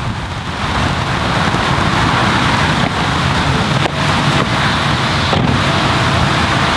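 Wind gusting and buffeting the microphone as a loud, steady rushing noise.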